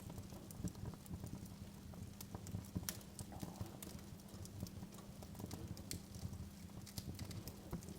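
Wood fire crackling in a fireplace: irregular sharp pops and snaps, several a second, over a low rumble of burning.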